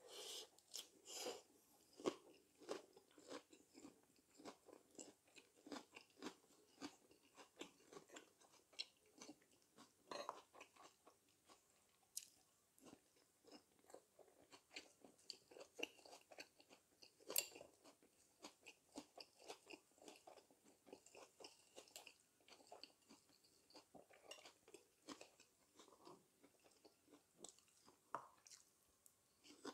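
Close-up chewing of a lettuce wrap of dak galbi (spicy stir-fried chicken): quiet, irregular crunches and wet mouth clicks, a few a second.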